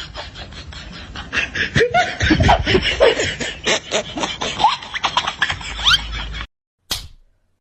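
People laughing amid sharp knocks and clatter, until the sound cuts off abruptly about six and a half seconds in; one brief sound follows.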